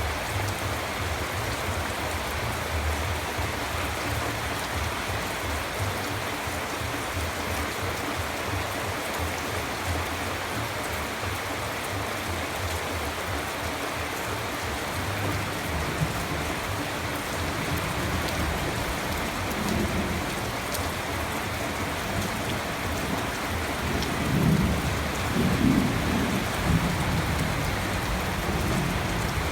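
Steady rainfall, an even hiss of drops on surfaces. A low rumble of thunder swells up about two-thirds of the way through and again, louder, near the end.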